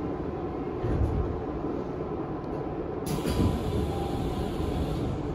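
Interior sound of a Tokyu 5000 series electric commuter train: a steady rumble of wheels on rail and running gear under the car floor, with two heavier low swells, about a second in and near the middle.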